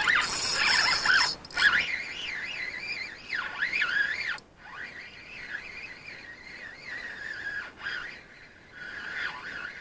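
Songbirds singing with continuous wavering, warbling phrases. A loud burst of rushing noise fills roughly the first second and a half.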